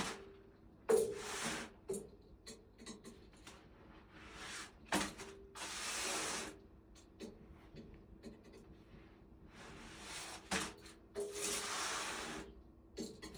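Repeated rubbing swishes, each about a second long, with a few short light knocks between them.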